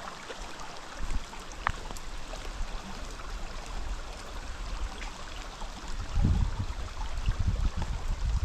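Steady rushing water, rain or a running stream, as a constant wash of noise. From about six seconds in, irregular low rumbling buffets sound on the microphone.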